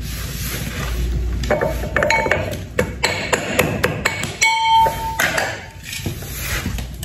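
Kitchen utensils and cookware knocking and clinking together, with a series of sharp knocks and a short ringing ping about four and a half seconds in.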